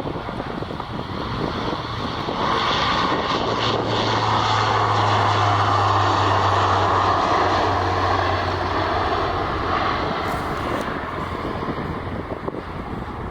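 Airliner passing close by: its engine noise swells a couple of seconds in, holds loudest through the middle with a steady low hum, then fades away.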